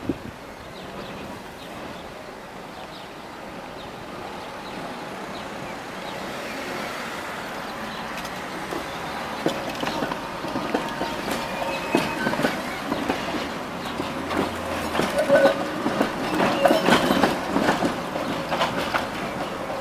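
Tram running on rails and coming closer: a rumble that grows, then from about halfway many sharp clicks of the wheels over rail joints and points, with brief wheel squeals. It is loudest a few seconds before the end.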